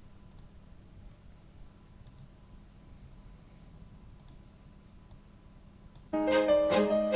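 A few faint computer mouse clicks over quiet room tone, then about six seconds in, loud music playback starts suddenly: steady piano-like keyboard notes struck in a repeating pattern.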